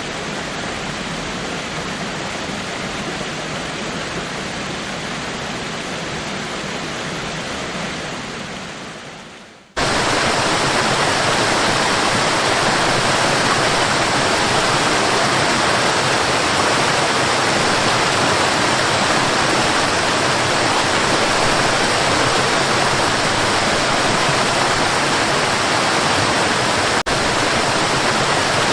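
Waterfall: a steady rush of falling water. About ten seconds in the sound fades out and a second, louder waterfall starts abruptly, with a brief dropout near the end.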